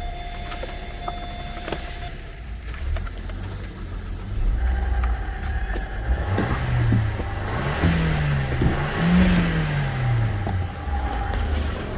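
Opel Corsa D's Z14XEP 1.4-litre four-cylinder petrol engine idling, then revved up and down three times in the second half, the pitch sinking back to idle near the end.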